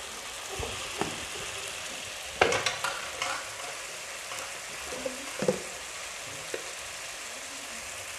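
Chili sambal sizzling steadily as it is sautéed in a nonstick wok, with a few knocks of a spatula against the pan. The loudest knocks come about two and a half seconds in.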